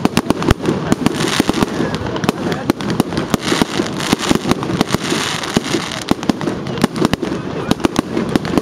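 Aerial fireworks bursting in a rapid, continuous barrage: many sharp bangs and crackles a second, with no let-up.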